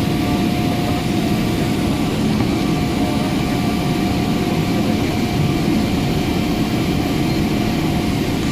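Steady cabin noise inside a Boeing 777-300ER on the ground after landing: a continuous low rumble with a few faint, steady whining tones above it.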